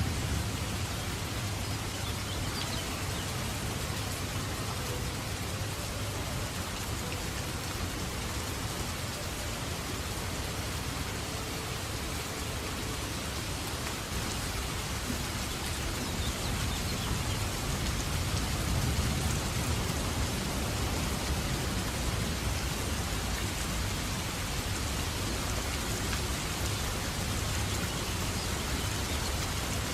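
Steady rain falling in a storm, an even hiss of many drops. A low rumble of distant thunder swells about halfway through and fades again.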